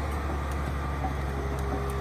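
Heavy-haul truck engine running steadily under load, a continuous low drone with road noise.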